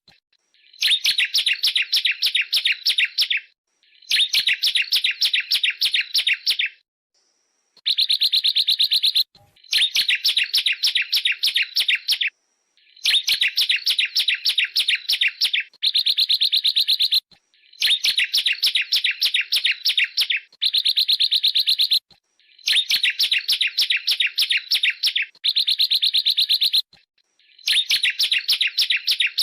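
Bar-winged prinia (ciblek) song: a rapid, dense trill of high repeated notes, delivered in about a dozen phrases of one to three seconds each, with short pauses between them.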